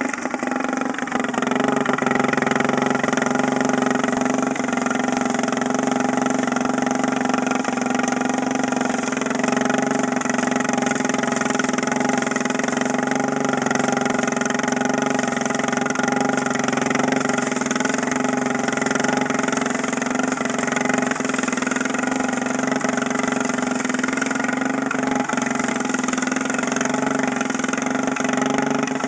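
Small weed eater engine fitted with a big exhaust on a homemade lawn mower, running steadily and loud at an even pitch.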